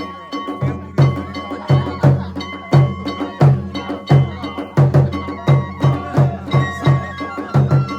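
Kagura shrine music: a drum beats steady heavy strokes about every 0.7 s, with metallic ringing strikes and high held notes over it.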